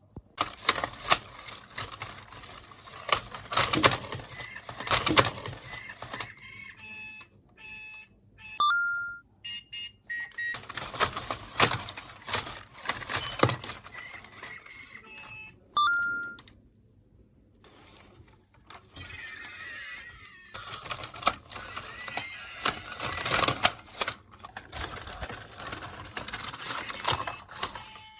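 Hands handling hard plastic toy parts, with dense clicking, tapping and crackling throughout. Twice, about nine and sixteen seconds in, the electronic toy creature gives short electronic beeping tones.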